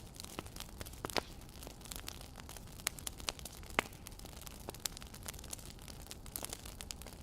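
Wood fire crackling: irregular sharp pops and snaps over a steady low hiss, the loudest pop a little under four seconds in.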